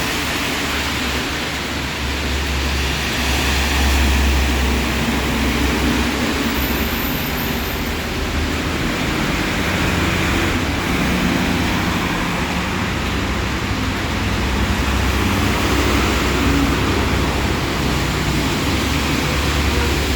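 Heavy rain falling, a steady dense hiss, with a low rumble underneath.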